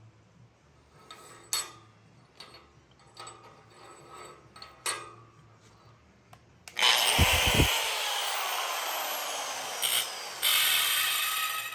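A few clicks and knocks of parts being handled, then a power tool starts suddenly about seven seconds in and runs loudly for about five seconds, easing off briefly near the end before running on.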